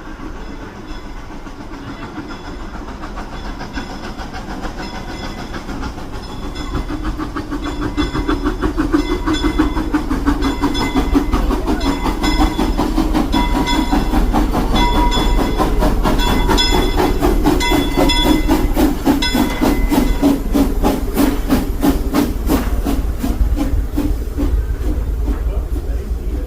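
Frisco Silver Dollar Line narrow-gauge steam locomotive working, with steam hissing and a steady rhythm of exhaust beats that grows louder about a third of the way in.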